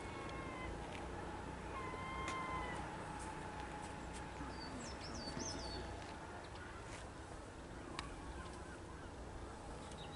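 Birds calling: a few short whistled calls in the first three seconds and quick high chirps around five seconds in, over a faint steady low rumble.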